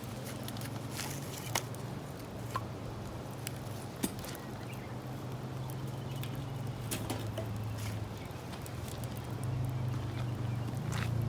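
Wood fire burning, crackling with scattered sharp pops, the loudest about four seconds in, over a steady low rumble.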